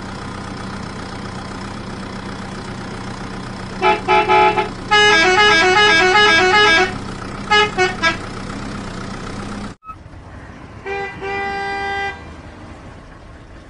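Electronic horn-like beeping of a toy vehicle sound effect over a steady low hum. There are short beeps, then a quick stepping tune of several pitches, and a few more short beeps. After a sudden cut, one more held beeping horn tone follows.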